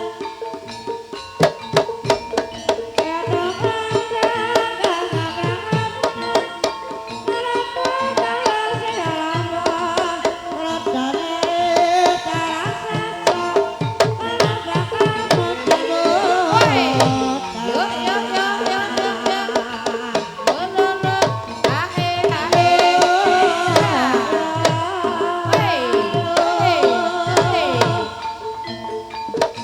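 Ebeg accompaniment music: a Javanese gamelan ensemble with kendang hand drums beating a busy rhythm, and a sliding, wavering melody line joining in at times.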